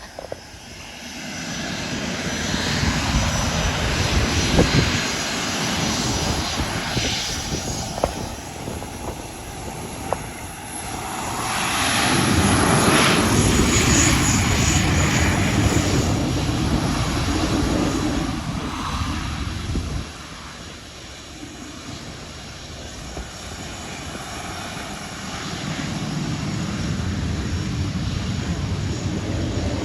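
Airplane engines heard as an aircraft passes the airport, swelling to a peak about halfway through. The sound drops suddenly about two-thirds of the way in, then runs on at a lower, steady level.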